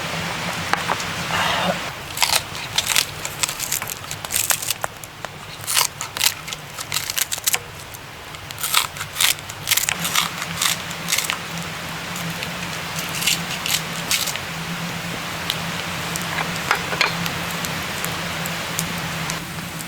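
Steady rain, with a run of sharp clicks and crackles in the first half to two-thirds.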